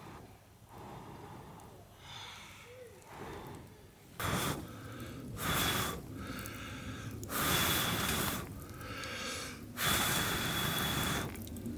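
A person blowing hard four times in long, breathy puffs, each with a faint high whistle.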